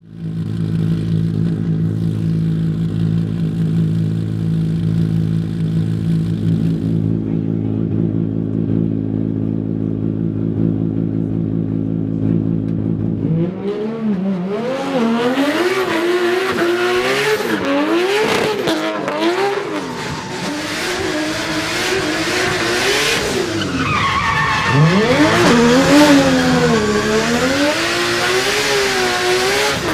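Nissan RB28 straight-six engine in a BMW M3 drift car, idling steadily at first. About 13 seconds in, it goes into hard on-and-off throttle, its revs swinging rapidly up and down as the car drifts, with tyre squeal and skidding noise over it.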